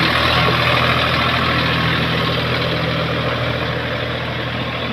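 Tractor engine running steadily, easing slightly in loudness toward the end.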